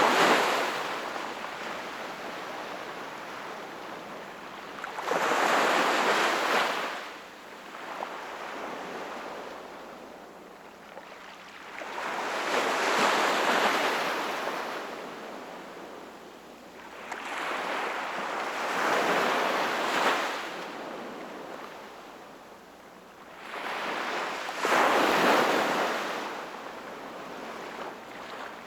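Sea waves breaking and washing up the shore, coming in slow surges about every six seconds, each swelling to a loud rush and then fading to a softer wash before the next.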